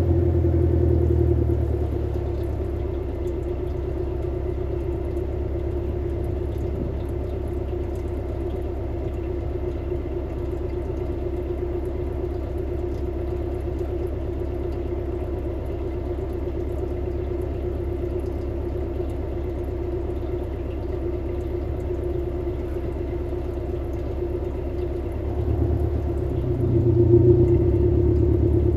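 Subaru Levorg VN5's 1.8-litre turbocharged flat-four boxer engine idling through an STI performance muffler after a cold start. About two seconds in, the idle settles lower and quieter as the cold-start fast idle ends. Near the end the engine note rises briefly and falls back.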